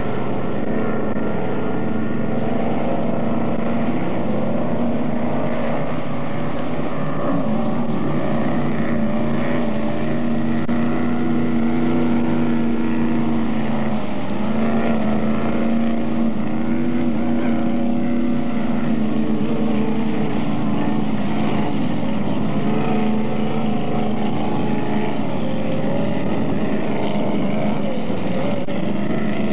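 Engine of a 1976 17-foot Kachina jetboat running on the water, its pitch slowly rising and falling.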